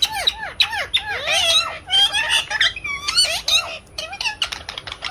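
Parrot squawking and chattering: a quick run of short, arching squawks and chirps, several a second.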